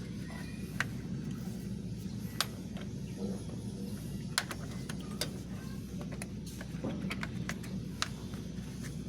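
Irregular sharp clicks and taps, about ten of them, over a steady low rumble.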